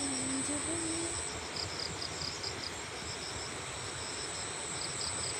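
Crickets or similar insects buzzing and chirping: a steady high-pitched whine that drops out about a second in, with rapid repeated chirps continuing, over a steady even rush of background noise.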